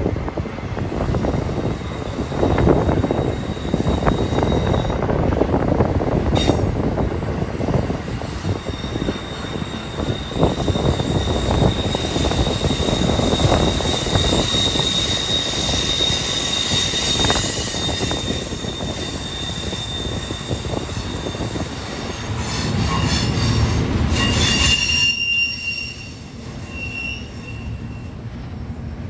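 BNSF freight train rolling past, its steel wheels squealing against the rails in long, high, steady tones over the rumble of the cars, with wind noise on the microphone.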